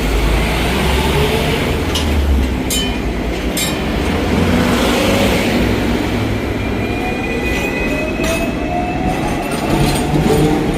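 Hong Kong double-decker electric tram running along its street track: a steady rumble with a rising whine, twice picking up as it gathers speed, and a few sharp clacks of the wheels in the first few seconds.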